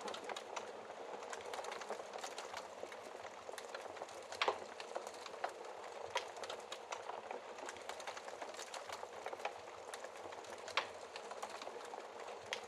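Wood fire crackling in a fireplace: a steady hiss scattered with many small snaps, and a louder pop about four seconds in and another near eleven seconds.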